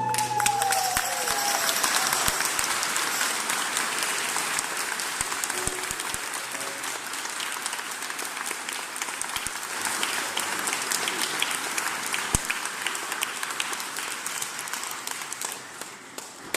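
Audience applauding, a dense mass of clapping that gradually thins out towards the end. In the first second the choir's last sung note slides down and fades under the clapping.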